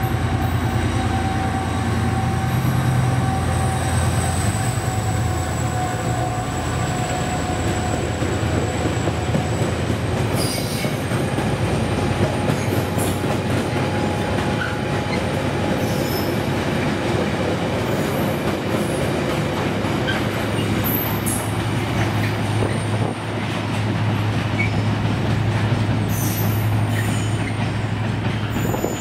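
Irish Rail 071 Class diesel locomotive, its EMD 12-cylinder two-stroke engine running loudly, passing with a long train of Tara Mines ore wagons that rumble and clatter along the rails behind it. A thin high wheel squeal sounds over the engine for roughly the first ten seconds.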